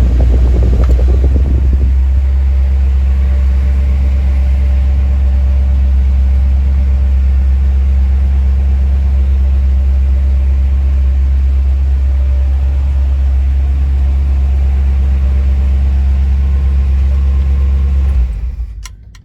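1957 Chevrolet Nomad's engine idling with a steady low rumble, falling away near the end.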